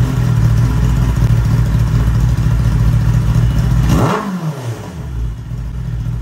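Kawasaki ZX-10R inline-four engine running with the silencer removed, exhausting straight out of the bare de-cat pipe: a loud, open idle. About four seconds in there is one throttle blip, after which it settles back to a somewhat quieter idle.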